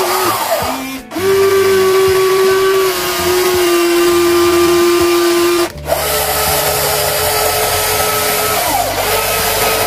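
Small electric motors of remote-control toy construction vehicles whining steadily at a high pitch. The pitch dips briefly at the start and again near the end, and the sound breaks off for a moment about a second in and again just before six seconds.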